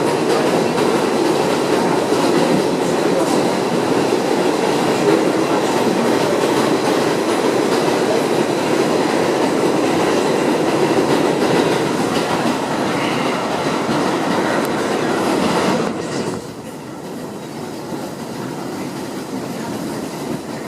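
Inside an R62A subway car running at speed: a steady loud rumble of wheels on rails and car noise, which drops suddenly to a quieter level about three-quarters of the way through.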